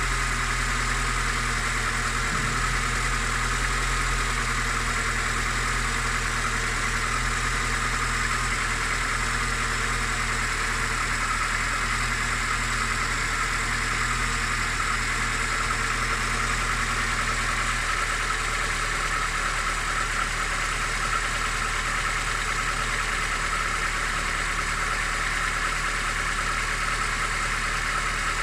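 Engine idling steadily with a knock in it, recorded so that the knock can be identified; its cause is unknown to the owner.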